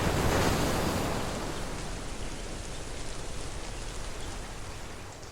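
Steady rain, an even hiss that is loudest about half a second in and gradually fades.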